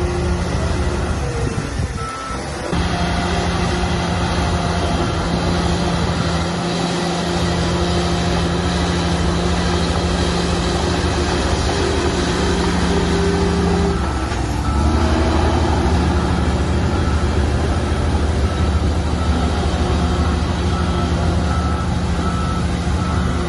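Heavy diesel earthmoving machinery running steadily, its drone shifting twice. From about halfway through, a reversing alarm beeps repeatedly, typical of a dump truck backing up to tip its load.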